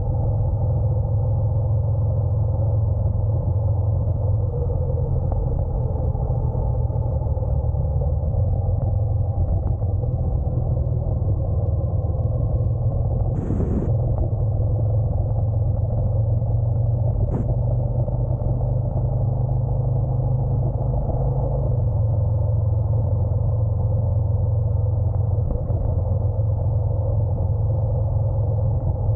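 Honda NC750X parallel-twin engine running steadily under way, a constant low rumble mixed with road noise. Two short sharp noises come about halfway through.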